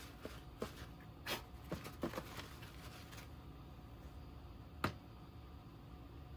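Light clicks and rustles of plastic oscilloscope parts being handled during reassembly: a quick run of small clicks in the first three seconds, then one sharp click a little before five seconds.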